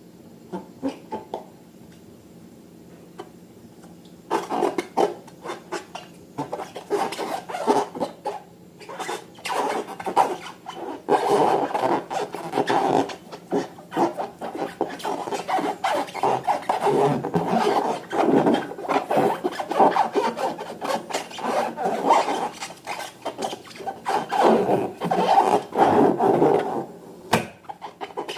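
Slime being squished and kneaded by hand, a dense run of sticky crackles and squelches that starts about four seconds in after a few light clicks.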